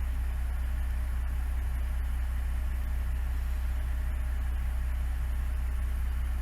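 Diesel railcar engine idling steadily: a constant low hum with a faint regular pulse.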